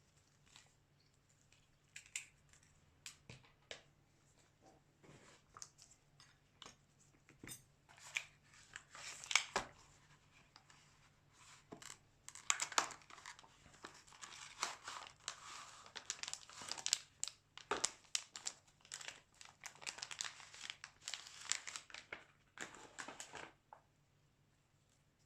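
Crinkling, tearing and scratching of plastic film or adhesive being handled and peeled during a smartphone screen replacement, with many small clicks. It starts sparse and grows busier about halfway through, then stops shortly before the end.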